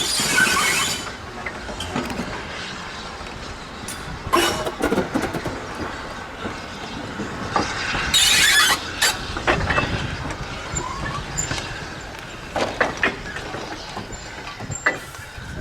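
Steam train on the move, running along the rails with scattered clanks and knocks from wheels and couplings. There are bursts of hissing in the first second and again, loudest, about eight seconds in.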